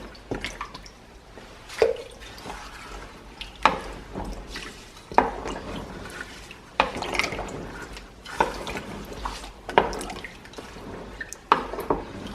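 Sharp knocks repeating about every one and a half seconds, with wet, dripping liquid sounds between them.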